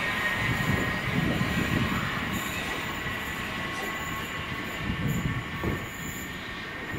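Train moving through the station: a low rumble from its wheels and running gear with a thin, steady high squeal of wheels on rails, slowly fading.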